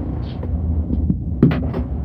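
City bus running on the road, a steady low engine and road rumble, with a sharp knock about one and a half seconds in.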